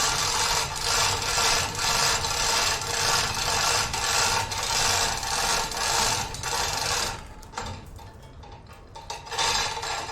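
A hand tool scraping back and forth over a tractor's front weight, cleaning off old paint and grime, in steady strokes a little over one a second. The strokes stop about seven seconds in, with one more near the end.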